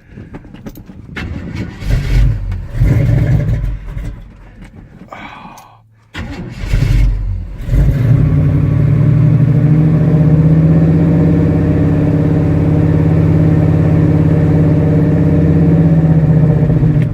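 1984 Chevy K30 pickup's V8 being cranked over in sub-zero cold on a weak battery, without a working choke. The engine turns over unevenly for the first few seconds and stops about six seconds in. From about eight seconds a long, steady cranking run follows, and the engine does not catch.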